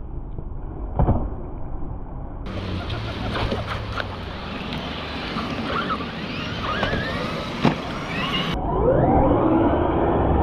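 Electric RC trucks driving on wet concrete: motor whine rising and falling with the throttle over a hiss of tyres through water. Two sharp knocks come about a second in and again about three-quarters of the way through, and the whine climbs steadily near the end.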